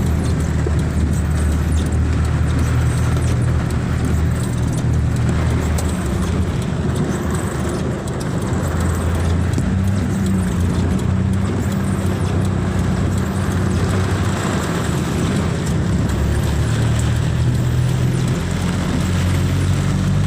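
Car engine and road noise, steady, with a low engine hum that shifts in pitch a few times.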